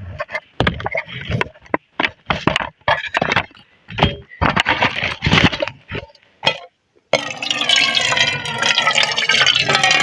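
A series of short knocks and rustles, then water poured into a cooking pot for rice in a steady stream for the last three seconds or so.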